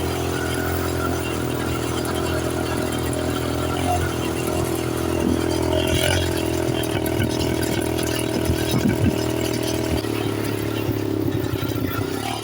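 An engine running steadily at an even pitch, cutting off abruptly at the end.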